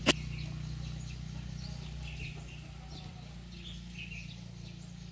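Scattered short bird chirps over a steady low rumble, with a sharp click right at the start.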